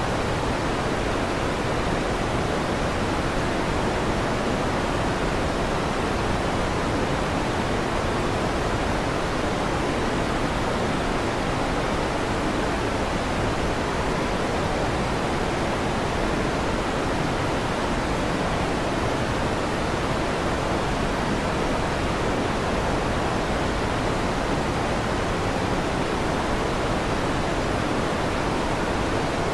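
Electric fan running with a steady, even whooshing hiss that doesn't change.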